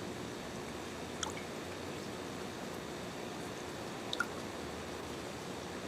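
Steady rain hiss with two single water drips, one about a second in and one near four seconds.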